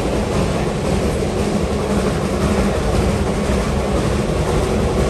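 Narrow-gauge logging railroad train running along the track, heard from aboard: a steady, loud rumble.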